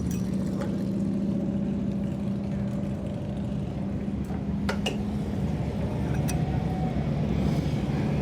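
Steady low mechanical hum of shop machinery, with a few light clicks of parts being handled; the hum shifts slightly about halfway through.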